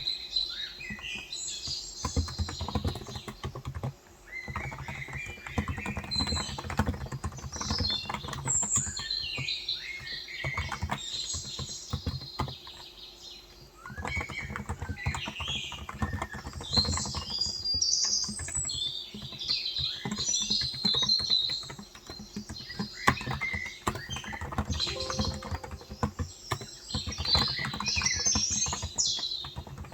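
Typing on a Cox Endeavor tenkeyless keyboard with 35 g electrostatic capacitive (Topre-style) switches: keystrokes in quick runs, pausing briefly twice, while small birds chirp and twitter in the background.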